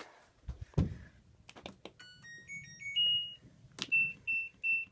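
A 2012 LG top-load washing machine's control panel sounds a short rising electronic power-on tune, then single beeps of one pitch at an even pace as settings are selected. A thump comes just under a second in.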